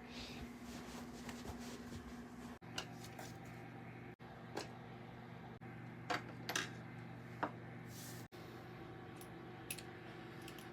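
Faint, scattered clicks and taps of small household objects being handled, over a steady low room hum.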